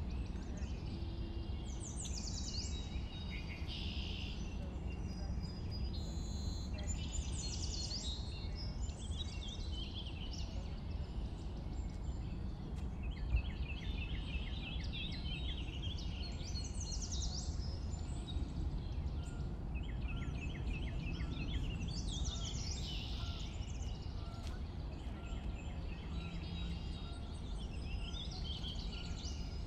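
Forest ambience: several birds singing and calling throughout, with quick chirps and rapid trills, over a steady low rumble.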